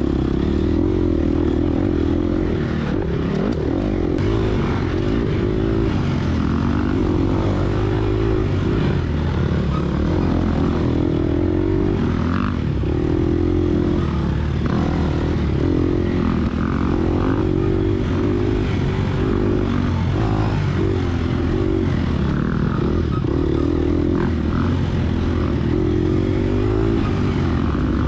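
Gas Gas EX250F four-stroke dirt bike engine at race pace, the revs rising and falling over and over with throttle and gear changes.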